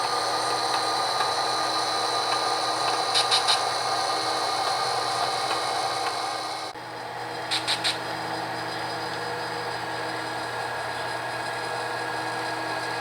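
Small camera drone's propellers whirring steadily, a high motor whine with several held tones; it drops a little in level about two-thirds of the way in. Two quick sets of three short high blips sound over it, a few seconds apart.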